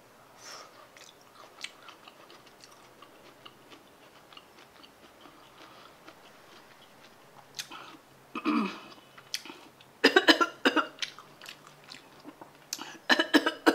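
A person chewing crunchy kimchi cabbage with faint small crunches, then a few louder coughs about ten seconds in and again near the end.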